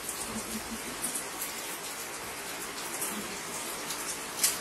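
Steady rain falling, with scattered drops tapping close by. A single sharp tap near the end is the loudest sound.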